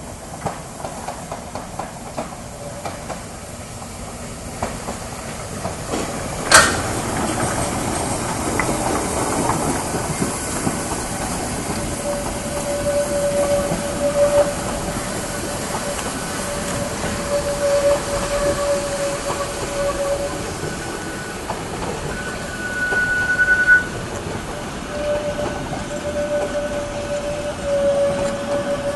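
HSB narrow-gauge steam train pulling into a station, getting louder as it approaches, with clicking from the wheels early on and a single sharp crack about six seconds in. From about twelve seconds a thin metallic squeal comes and goes as the train slows.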